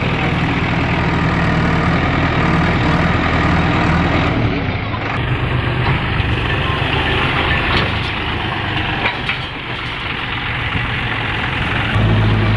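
Heavy diesel machinery engine running with a steady low drone; near the end its note settles into a lower, steadier hum.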